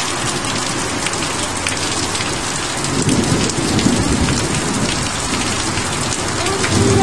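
Torrential tropical downpour: very heavy rain pouring down in a dense, steady hiss. A low rumble of thunder swells about three seconds in and builds again near the end.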